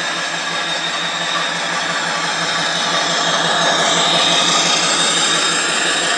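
Hornby class 08 model shunter's TTS sound decoder playing its diesel engine sound through the loco's speaker, running steadily, then swelling and rising in pitch a little past the middle as it revs.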